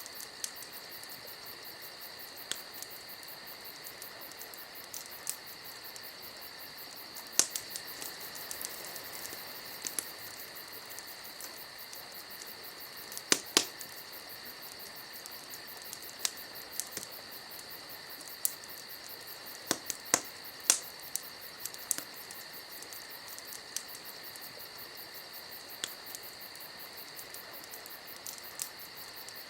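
Campfire crackling, with irregular sharp pops over a steady high hiss.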